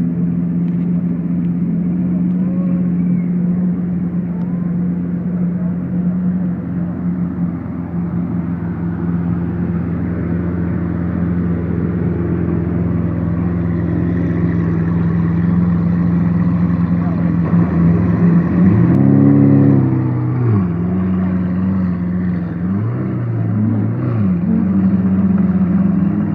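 Lamborghini Aventador V12 with an Armytrix exhaust idling steadily, then blipped: one rev that climbs and drops back about two-thirds of the way through, followed by two shorter blips near the end.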